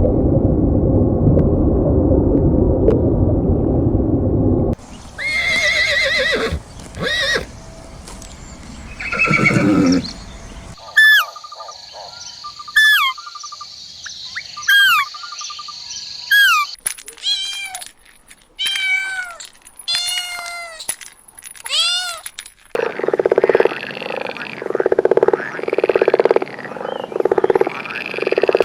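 A string of different animal calls in short separate clips, each kind giving way abruptly to the next. These include high, repeated downward-curving calls in the middle and a run of about one call a second near the end.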